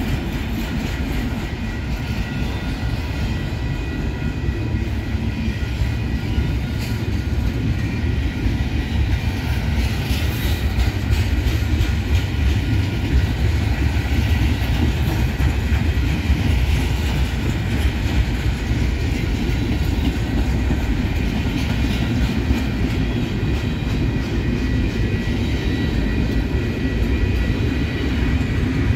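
A freight train's cars rolling past: a loud, steady rumble of steel wheels on rail with occasional light clicks, and a faint high steady tone above it.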